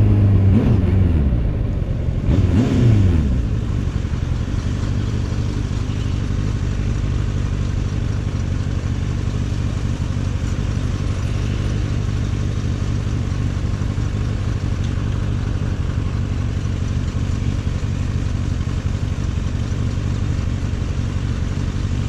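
Kawasaki Z800's inline-four engine with its stock exhaust, revs falling as the bike slows, a short throttle blip two to three seconds in, then idling steadily.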